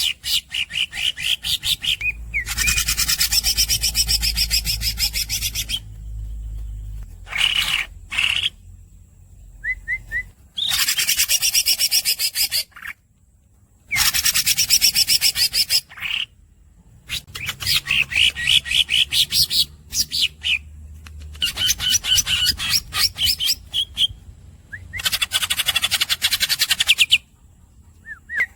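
Green leafbird (cucak ijo) singing in bouts of a few seconds: high squeaky notes and long rolls of very rapid repeated notes, broken by short pauses.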